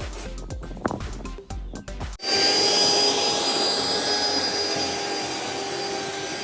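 Background music with a beat, cut off abruptly about two seconds in by a loud, steady whirring machine noise with a high whine, which slowly fades a little.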